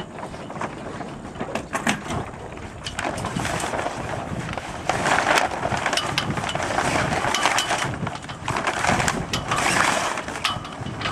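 Sailcloth crinkling and rustling as a small sailboat's mainsail is lowered and gathered by hand, in uneven swells, with scattered clicks and knocks.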